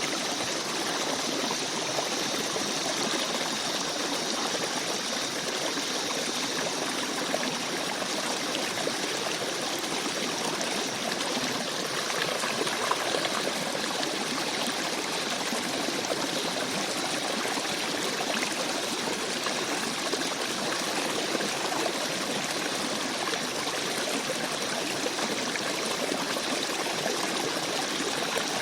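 Small stream babbling and trickling over rocks, a steady rush of flowing water with small gurgles.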